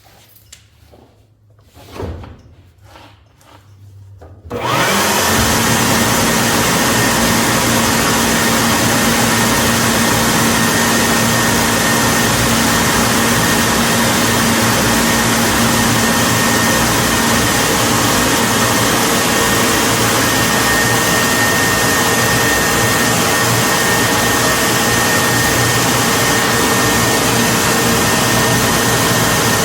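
A few light knocks and clicks, then about four and a half seconds in a loud electric motor with rushing air switches on suddenly and runs steadily, with a faint steady whine over it.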